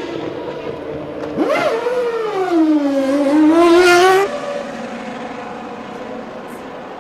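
Formula One race car engine. Its note shoots up, sinks as the car slows, then climbs again under acceleration, and cuts off abruptly about four seconds in. Fainter, steadier engine noise follows.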